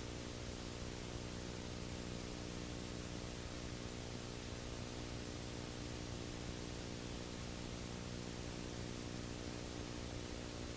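Steady hiss with a low electrical hum and its overtones, unchanging throughout; no other sound stands out.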